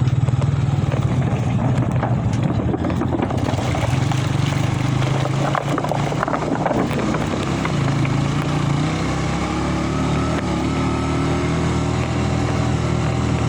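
Vehicle engine running steadily on the move, a continuous low hum whose pitch shifts slightly in the second half, with a few short rattling knocks around the middle.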